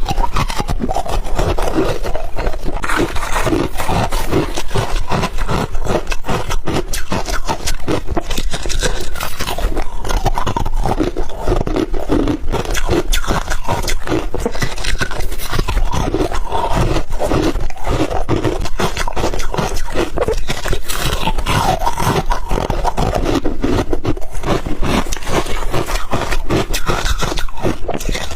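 Ice being bitten and chewed right at the microphone: a continuous, dense run of crunches and cracks.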